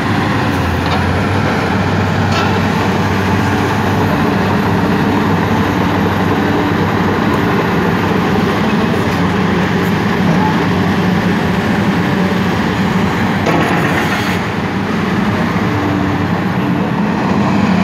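MST M300 excavator's diesel engine running steadily under load, with a few faint clicks and clanks over it.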